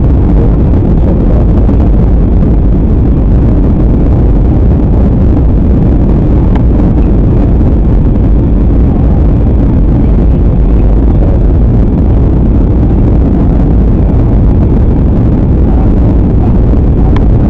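Steady, loud low roar of jet engine and airflow noise inside an airliner cabin in flight.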